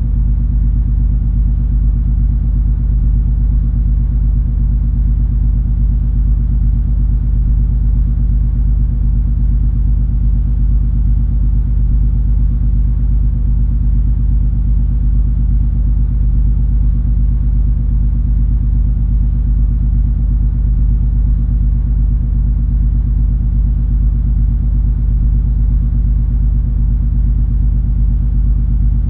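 Cruise ferry MS Color Fantasy under way: a steady low engine drone, an even rumble with a few constant low hums and nothing high above it.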